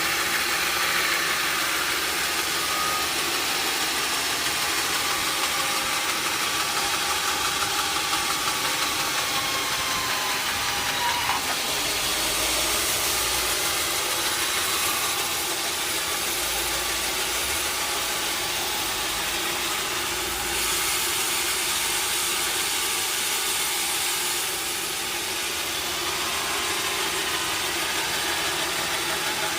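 Sawmill machinery running steadily, with a faint whine that falls slowly in pitch over the first ten seconds or so.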